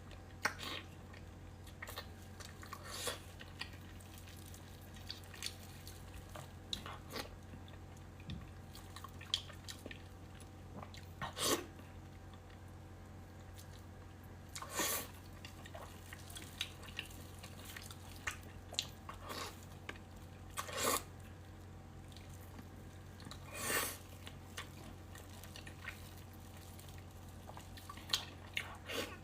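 Close-miked chewing and mouth sounds of a person eating: many small wet clicks, with a few louder short mouth sounds scattered through, over a faint steady hum.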